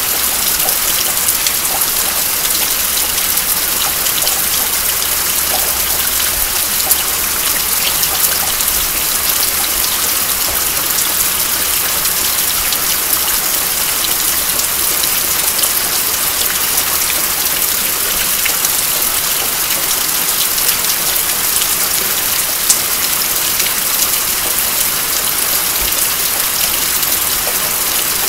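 Steady rain: a dense even hiss sprinkled with sharp drop ticks, with water dripping off the roof edge of a house and a few louder single drops now and then.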